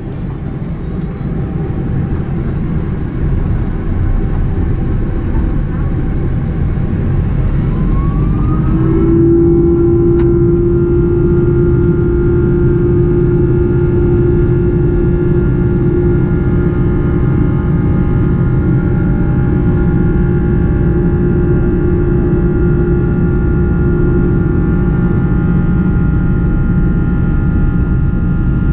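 Boeing 767-300's Rolls-Royce RB211 turbofan engines spooling up for the takeoff run. The sound grows louder over the first few seconds, and a rising whine about eight seconds in settles into a loud, steady engine drone with a strong hum.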